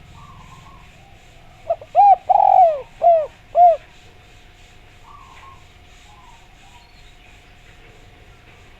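Spotted dove (derkuku) cooing: one phrase of four arched coos, starting about two seconds in, with faint chirping of other birds around it.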